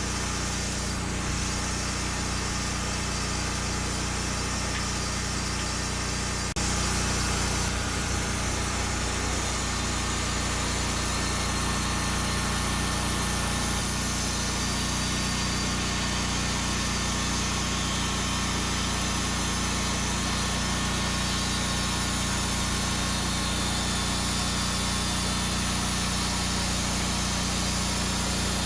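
Bandsaw mill engine of a Norwood Lumbermate Mark IV saw head, running steadily, with a click and a step up in loudness about six and a half seconds in.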